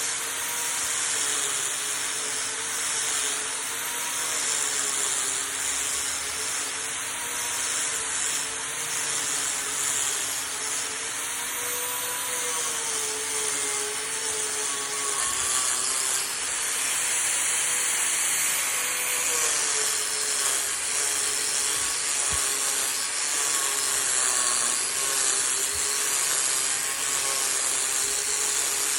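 Power tool cutting wood: a steady hissing cut over a motor hum that wavers slowly up and down in pitch as the load changes.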